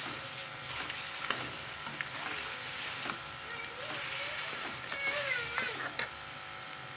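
Chicken feet in oil, spice paste and tomato paste sizzling in a pot during the bhuna frying stage, stirred with a spoon that scrapes and knocks against the pot a few times.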